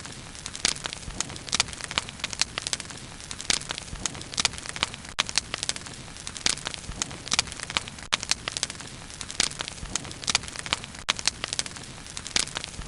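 Wood fire burning, with frequent sharp, irregular crackles and pops over a soft steady hiss.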